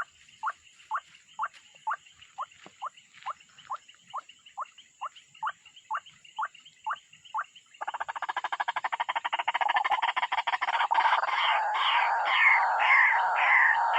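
Animal calls: a short falling call repeated about twice a second, then, about 8 s in, a sudden switch to a much louder, dense rasping chatter with quick falling notes.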